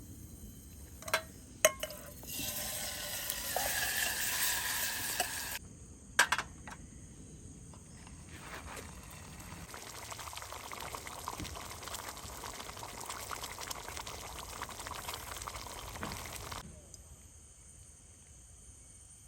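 Liquid pouring or running in two spells, a loud one of about three seconds and a quieter one of about eight seconds, each starting and stopping abruptly, with a few sharp clicks and knocks around them.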